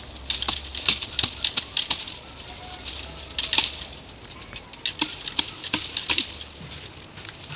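Dry leaves and bamboo litter rustling and crackling in quick, irregular snaps as a bamboo shoot is pulled and broken off by hand.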